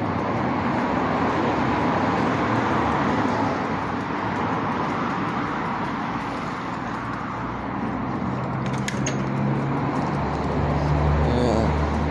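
Road traffic: a car going by, tyre and engine noise, followed by a low steady engine hum over the last few seconds. A couple of sharp clicks come just before the end.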